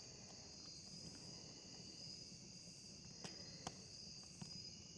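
Faint crickets chirping in a steady, high-pitched trill, with a couple of faint clicks about three and a half seconds in.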